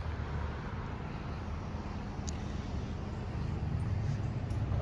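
A car engine running nearby as a steady low rumble, getting louder in the last second or so.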